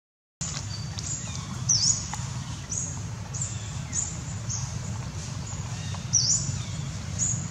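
Birds chirping in the forest: about half a dozen short, high-pitched chirps, each a quick sweep in pitch, the loudest about two seconds in and again near six seconds. A steady low hum runs underneath.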